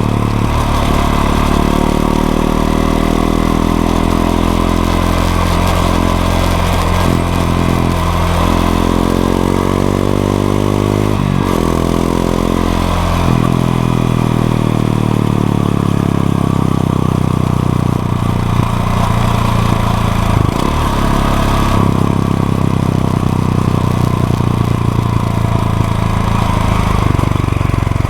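Honda XRE 190's single-cylinder four-stroke engine running under way, its pitch rising and falling as it accelerates and shifts, with sudden drops a little past the third of the way, then holding steadier near the end.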